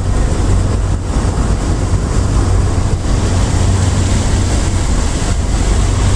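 Aircraft cabin noise in flight: a loud, steady engine drone with a strong low hum and rushing air.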